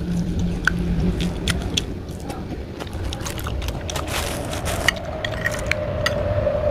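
Close-up eating sounds of someone gnawing on chicken feet: wet smacks and many sharp clicks of chewing, close to a clip-on microphone.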